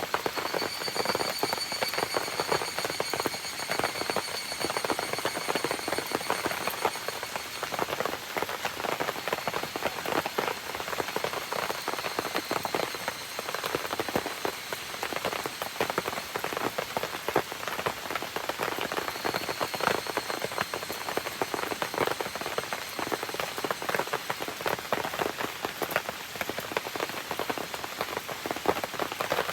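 Steady rain pattering, with a campfire crackling under it in many small clicks. A faint high, steady tone comes in for several seconds near the start and again about two-thirds of the way through.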